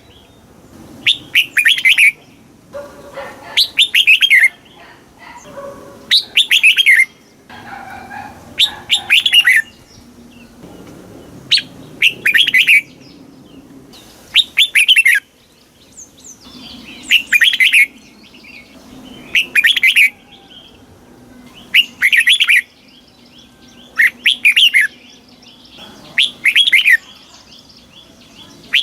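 Red-whiskered bulbul singing: loud, short, chirpy song phrases of about a second each, repeated every two to three seconds, about a dozen times.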